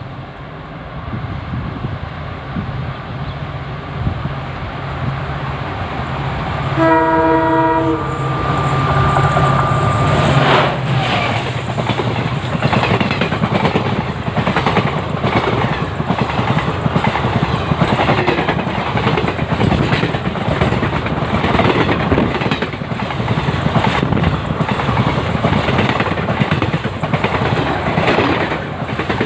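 WDP4D diesel-electric locomotive pulling out of a station and drawing near, its engine growing louder, with a horn blast about seven seconds in that trails off on one high note around ten seconds. Then the passenger coaches pass close by with a steady, loud clickety-clack of wheels over the rail joints.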